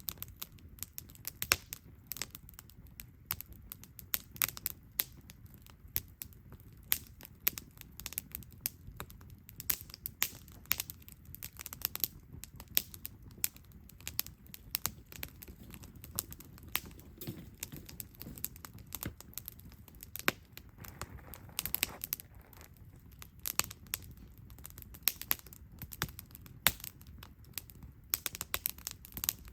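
Wood campfire burning, with frequent irregular sharp crackles and pops over a steady low sound of the flames.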